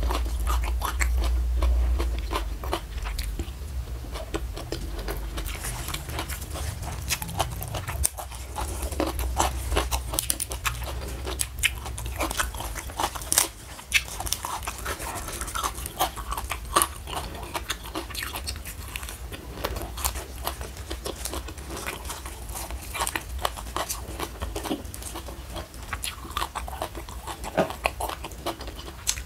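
Close-miked chewing and biting of raw leafy greens, with many short sharp crunches. A low hum runs under it for the first several seconds, then drops away.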